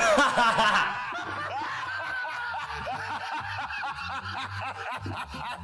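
People snickering and chuckling, loudest in the first second, then quieter giggling.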